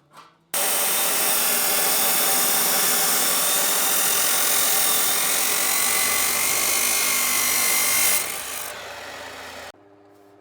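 A loud power tool running steadily for several seconds, then dropping lower before cutting off suddenly.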